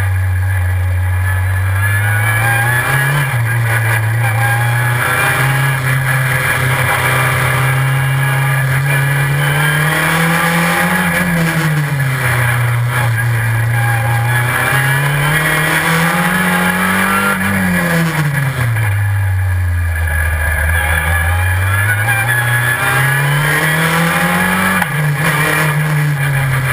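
Super FJ formula car's four-cylinder engine, heard onboard under hard driving. Its pitch climbs and drops back several times: accelerating, then changing gear through the dog-clutch gearbox or slowing for corners.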